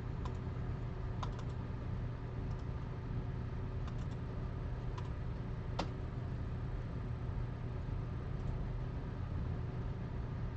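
A few scattered, light clicks of computer keys over a steady low background hum.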